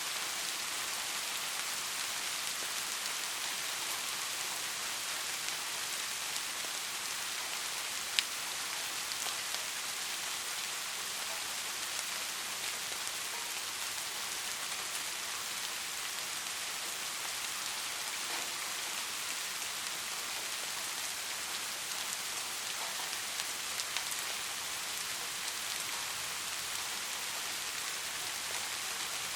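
Steady soft rain falling, an even hiss with scattered individual drops ticking through it. One sharper drop-tick comes about eight seconds in.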